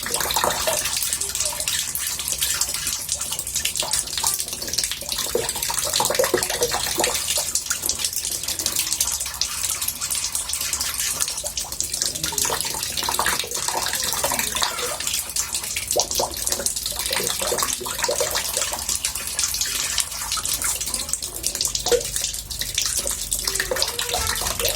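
Water running into a bathtub: a steady splashing rush with scattered small bubbling sounds.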